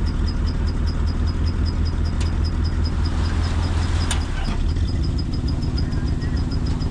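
Engine of a corn silage chopper running steadily under load, with a fast, faint, regular ticking over it and a couple of sharp clicks. About four and a half seconds in, the deep hum eases and the engine note shifts.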